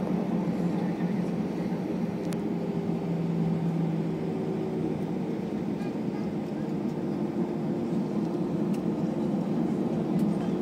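Steady cabin noise inside an Airbus A321 on the ground before takeoff: the low hum of the engines and the rush of the air conditioning, with faint steady tones that come and go.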